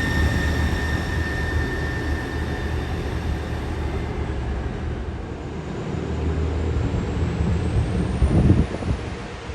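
Diesel passenger train running with a steady low rumble and a high whine that fades away over the first few seconds as it draws off. A short louder gust of wind hits the microphone near the end.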